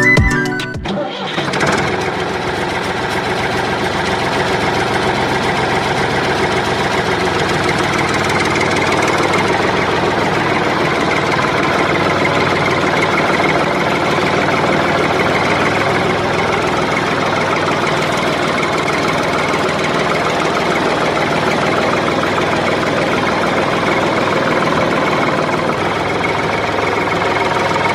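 An engine running steadily, an even, unbroken mechanical drone that starts about a second in.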